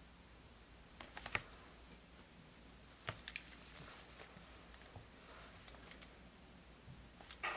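Light clicks and taps of stationery being handled on a desk, in small clusters about a second in, around three seconds and near the end, with brief soft scraping or rustling of paper between them.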